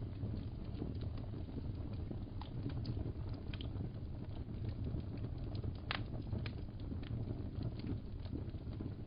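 Wood fire crackling: a steady low rumble with irregular small pops and snaps scattered through it, the sharpest about six seconds in.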